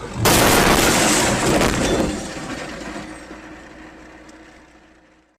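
Vehicle crash: a sudden loud impact about a quarter second in, a rough crashing noise for about two seconds, then fading away before the sound cuts off suddenly.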